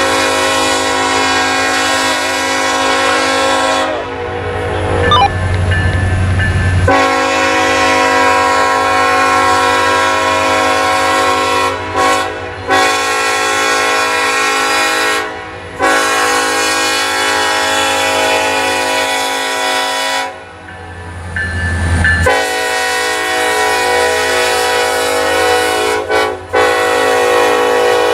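Nathan K5LLA five-chime horn on an EMD SD70ACe locomotive, blown loud in a series of long blasts with a few short breaks between them. In the pauses the locomotive's low rumble comes through.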